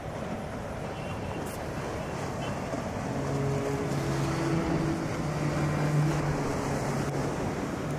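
Steady rushing, wind-like noise, joined about three seconds in by a low sustained drone that swells slightly.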